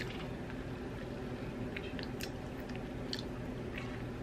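A person chewing a mouthful of soft, thick-cut fast-food fries with the mouth closed. It makes a few faint, short wet clicks and squishes rather than a crunch.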